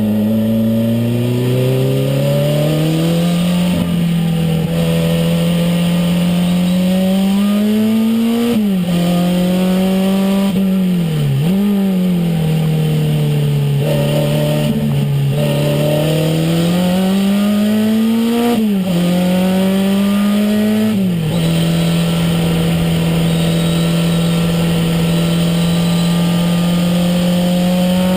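Renault 5 Turbo's turbocharged four-cylinder engine, heard from inside the car, pulling on track: the engine note climbs and drops sharply several times with gear changes and lifts off the throttle, then holds a steady pitch for the last several seconds.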